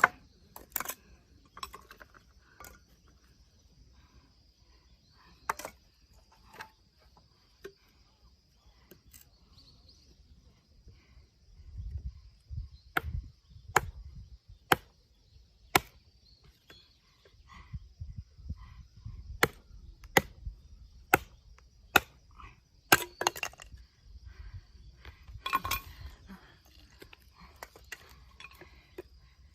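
Nata (Japanese hatchet) chopping and splitting firewood: about twenty sharp wooden strikes at an irregular pace, some coming in quick pairs.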